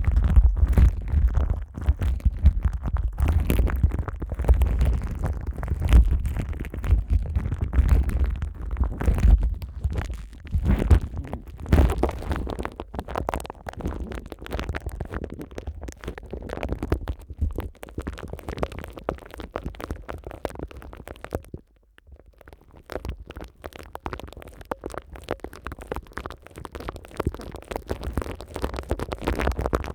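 Plastic wrap stretched over the ears of a Neumann KU100 dummy-head microphone, rubbed and crinkled by rubber-gloved hands: dense, irregular crinkling over deep rumbling, dropping briefly to quiet about two-thirds of the way through.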